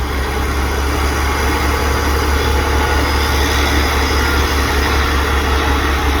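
Diesel passenger train's engine idling or running steadily close by, a loud, even low hum.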